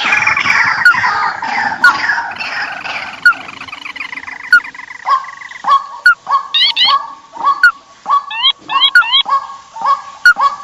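Rice-field birds calling noisily, as used for a bird lure: a dense chorus of overlapping calls for the first few seconds, then short calls repeated several times a second, each with quick upward-sweeping notes.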